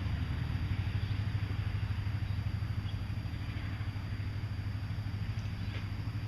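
An engine idling steadily: a low, evenly fluttering rumble, with a few faint high chirps above it.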